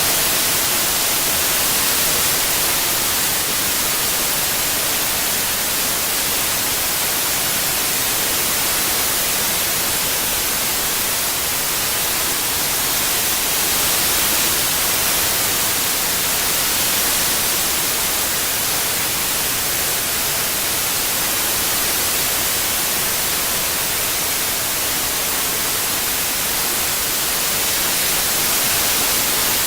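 Synthetic white noise: a steady, even hiss, brightest in the highs, with no tones or breaks, played as tinnitus masking.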